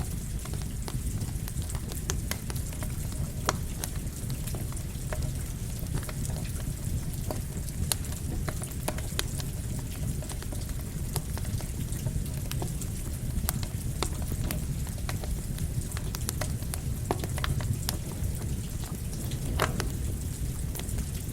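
Campfire crackling over steady rain: a constant hiss and low rumble with frequent sharp pops and crackles scattered throughout.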